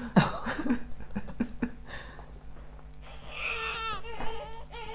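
A baby fussing and crying in a high, wavering voice, starting about three seconds in, after a few short scattered sounds.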